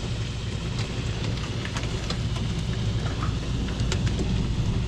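Rain and hail pouring down, with scattered sharp ticks of hailstones striking hard surfaces over a steady low rumble.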